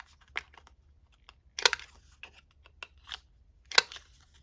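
Handheld corner rounder punch snapping through the corners of paper tags: two sharp loud clicks about two seconds apart, with lighter clicks and paper handling between them.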